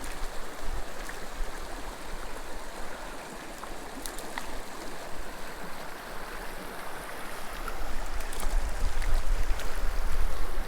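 Small mountain creek rushing and burbling over rocks. Wind buffets the microphone with a low rumble that grows stronger in the last few seconds.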